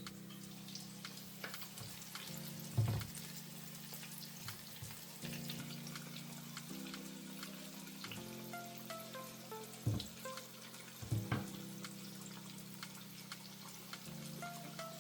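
Chicken frying in hot oil, a steady crackling sizzle, under background music of held chords and a simple melody. A few louder knocks come about three seconds in and twice around ten to eleven seconds.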